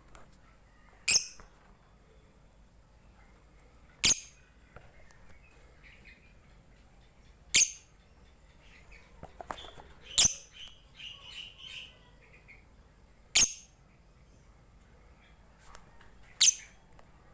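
A bird gives short, shrill, high-pitched calls about every three seconds, six in all, with softer twittering chirps between them around the middle.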